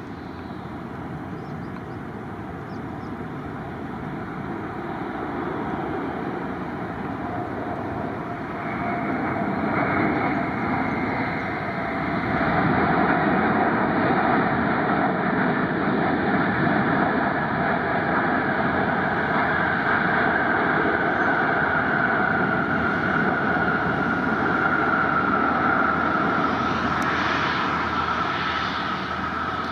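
Jet airliner's engines growing louder as the aircraft approaches, then holding at a steady loud rush, with a high whine that slowly falls in pitch through the second half.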